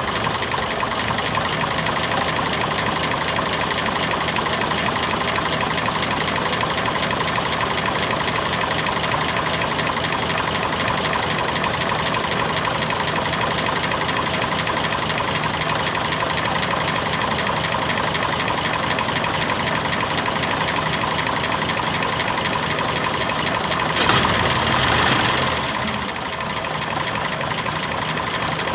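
A 1926 Oakland's six-cylinder engine idles steadily, drawing fuel up from the tank into its vacuum-tank canister. Near the end it is briefly louder for a second or so.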